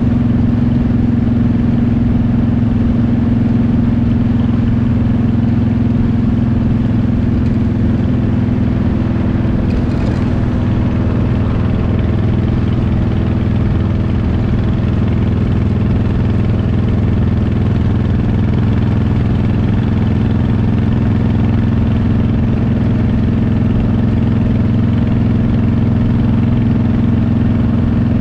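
Motorcycle engine running at a steady cruising speed, an even drone that holds the same pitch throughout.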